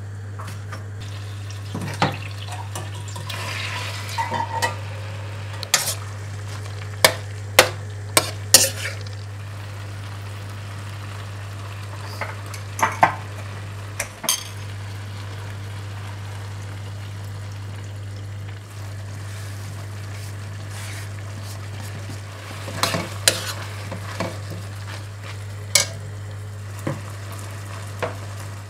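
Tofu and garlic chives frying in a wok with a faint, steady sizzle, broken by scattered sharp clicks and knocks of a metal spoon against the pan as they are stirred. A steady low hum runs underneath.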